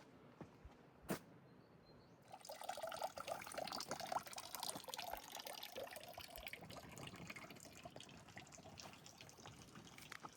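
Running water splashing and dripping, coming in suddenly about two seconds in and slowly fading after. A single sharp click about a second in.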